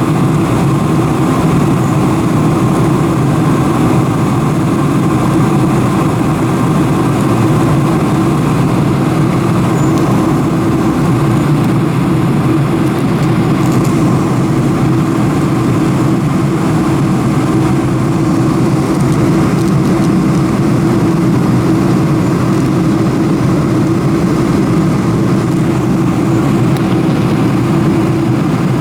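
Steady engine drone of a Boeing 747-400 heard from inside the cabin, an even rushing noise with a low hum that holds without change.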